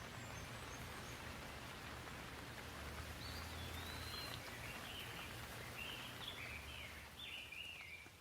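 Gentle rain falling in a steady hiss, with a bird singing a run of short rising and falling notes from about three seconds in until near the end.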